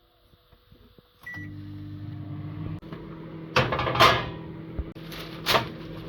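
Microwave oven started with a short keypad beep, then running with a steady low hum. Three loud knocks or clatters come over the hum.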